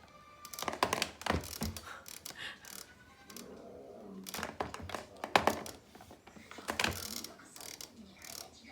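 Irregular knocks and thunks in three short clusters, with quieter gaps between them.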